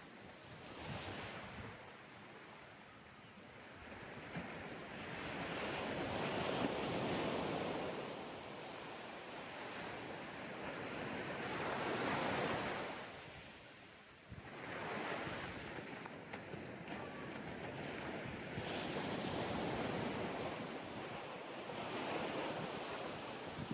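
Ocean waves breaking on a sandy beach, the surf washing in and drawing back in slow swells, with some wind on the microphone.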